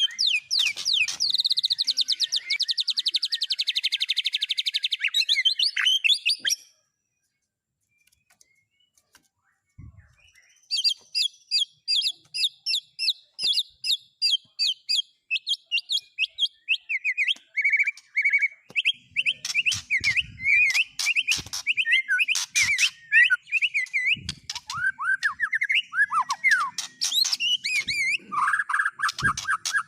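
Recorded songbird song of the kind used as training material for a white-rumped shama: a fast run of high chirps and a trill, which cuts off abruptly after about six seconds. After a few seconds of silence, rapid repeated chirps follow, several a second, and after a while they drop lower into quick, varied twittering phrases.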